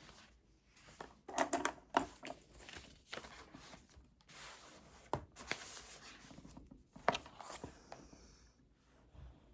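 Desk work sounds: paper being handled and rustled, with irregular sharp clicks and taps on the desk. The loudest come in a cluster around one and a half to two seconds in, and again near five and seven seconds in.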